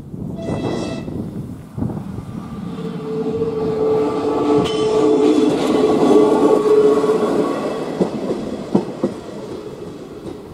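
A diesel train approaches and passes over a level crossing. A short horn blast sounds about half a second in. A steady engine drone follows, growing loudest around six seconds in as the train passes, then fading, with sharp wheel clicks over the rail joints near the end.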